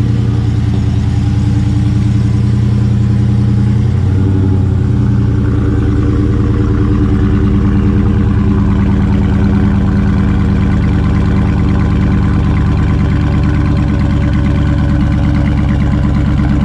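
2020 Dodge Charger Scat Pack's 6.4-litre HEMI V8 idling steadily, its note shifting briefly about four seconds in.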